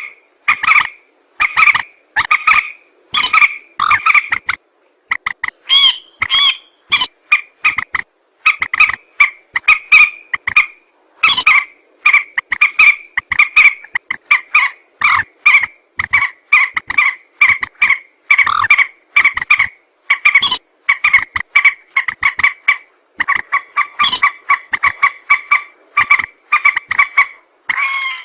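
Lure recording of a mandar (a rail-family waterbird) calling: runs of short, clipped, nasal notes, several a second, repeated over and over with brief pauses between runs.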